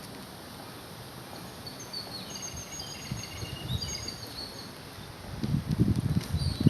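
Small birds chirping, a string of short high chirps over steady outdoor background noise. Near the end, louder low muffled rumbling comes in and covers them.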